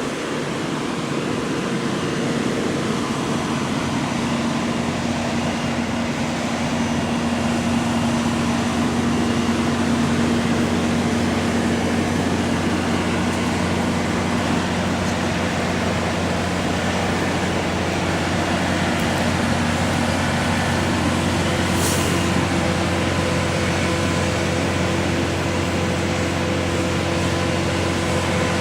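Concrete pump's engine running steadily with a deep hum and a few steady tones that shift in pitch twice. A brief hiss cuts in once, late on.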